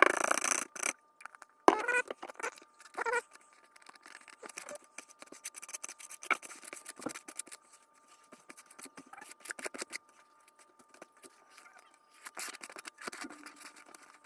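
Sheet of paper being handled and wood glue spread across it, giving irregular rustles, crinkles and small scraping clicks, with a louder rustle at the start. A faint steady whine sits underneath.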